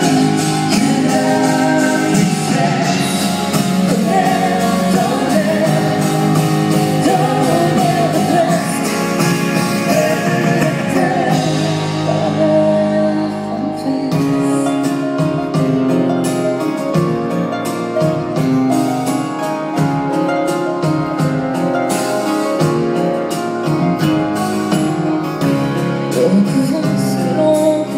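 Live band performing a song, with singing over sustained instrumental notes; about halfway through, a steady beat of sharp strokes comes in.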